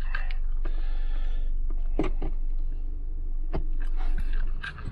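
MINI Cooper Countryman's engine idling, heard from inside the cabin as a steady low hum, with a few sharp clicks about two seconds in and again past three and a half seconds.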